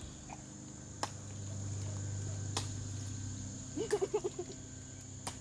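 Insects trilling steadily in a high, even chorus like crickets, with a few faint clicks and a quick run of short chattering sounds just before four seconds in.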